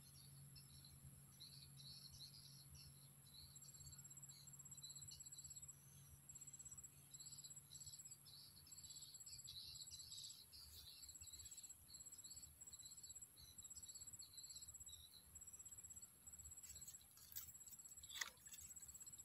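Faint evening insect chorus: a high, rapidly pulsed chirp repeats in short trains about once or twice a second over a patchy high buzz and a steady very high whine. One sharp click comes near the end.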